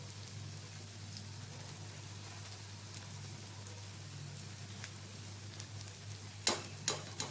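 Onions, ginger-garlic paste and ground spices sizzling gently in a kadai, a steady frying hiss over a low hum. Near the end a spatula clicks sharply against the pan three times.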